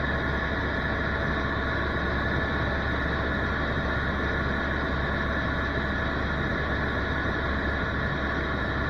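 Tour helicopter running steadily in flight: an even engine and rotor drone with a constant high whine over it.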